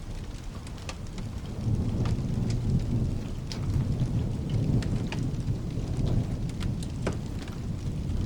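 A low roll of thunder swells up about two seconds in and rumbles on for several seconds over steady rain, with scattered sharp crackles throughout.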